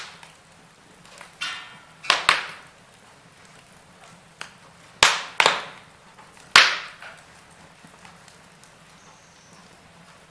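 Wood fire crackling in a fireplace: irregular sharp pops and snaps, the loudest coming in pairs and closer bunches a few seconds apart, over a quiet steady hiss.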